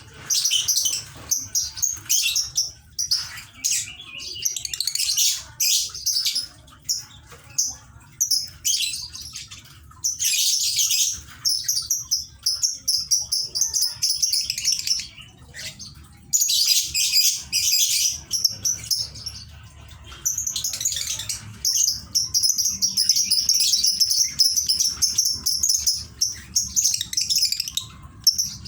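Pet lovebird singing: rapid, high-pitched chattering in repeated bursts of a second or two, with one long unbroken run of chatter lasting about seven seconds near the end.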